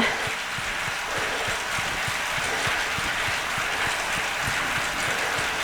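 Bicycle on an indoor trainer running under steady pedalling effort: a continuous whirring hiss with faint, irregular low knocks from the drivetrain.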